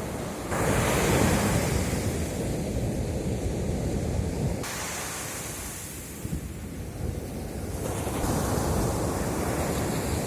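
Sea waves breaking on a beach. One wave crashes about half a second in and washes out over the next few seconds, and another swells in near the end.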